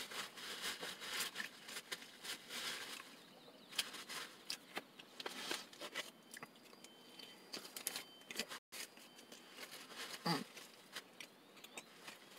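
Close-up chewing and mouth sounds of a person eating a sandwich, a steady run of small wet clicks and crunches, with the paper wrapper rustling in the hands. A short hummed "mm" comes about ten seconds in.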